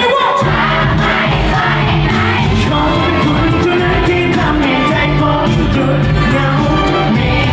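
A singer with a live band performing a Thai pop ballad: the voice carries the melody over steady bass and accompaniment.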